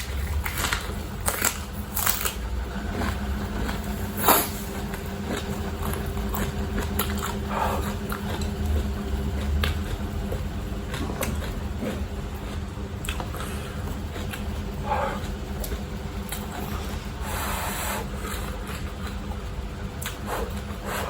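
A person eating instant noodles: chewing, with scattered short clicks and mouth noises, over a steady low hum.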